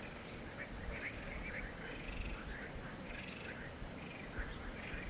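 A string of short, high animal calls, a few each second, over a low steady rumble.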